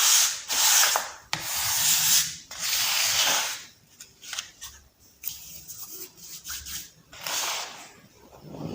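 Soft baking soda balls being crushed and crumbled, giving a gritty, powdery crunching. There are several long crumbling strokes in the first three and a half seconds, then scattered small crackles, and one more short crush near the end.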